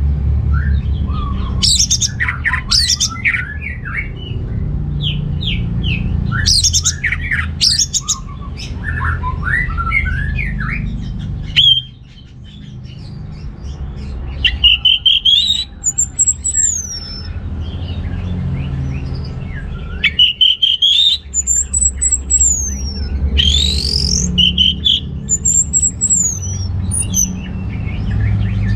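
Orange-headed thrush singing vigorously: a rapid run of varied warbled and chattering notes, then loud high whistles that sweep up and down. The song breaks off briefly about twelve seconds in, and a steady low hum runs underneath.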